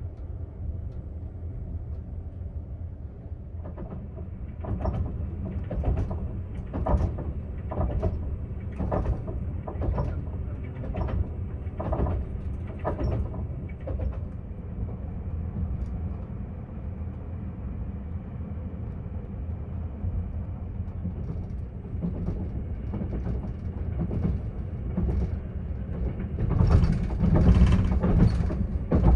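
Sleeper train coach running, heard from inside the cabin: a steady low rumble with regular knocks of the wheels over the rail joints, about one a second, for around ten seconds. Near the end comes a louder clattering stretch.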